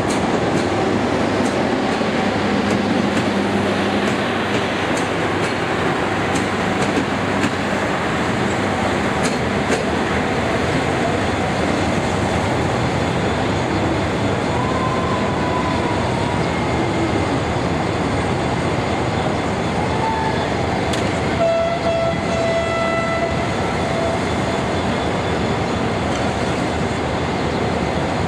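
Passenger train rolling through the station with a continuous rumble of wheels on rail and light clicking over the rail joints. About twenty-one seconds in, a short, steady high tone sounds for a couple of seconds.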